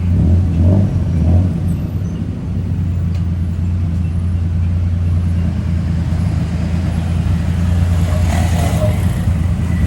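Steady low drone of a moving car's engine and road noise.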